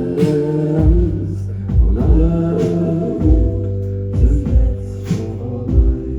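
Live rock band playing an instrumental passage: sustained organ-like keyboard chords over a slow kick drum that hits about once a second, with a few cymbal crashes.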